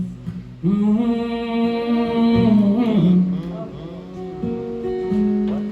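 Acoustic guitar strummed in a live song, an instrumental passage between sung lines.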